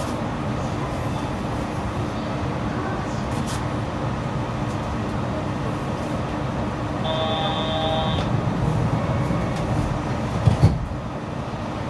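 Yurikamome rubber-tyred automated train running steadily along its guideway. A brief electronic tone sounds about seven seconds in, and two short thumps come near the end.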